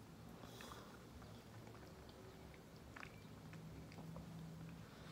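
Faint chewing and small wet mouth clicks of someone eating chicken feet by hand, over a faint steady low hum.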